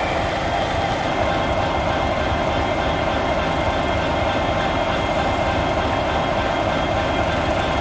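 A train running steadily: an even rumbling noise with a few faint steady high tones over it, unchanging throughout.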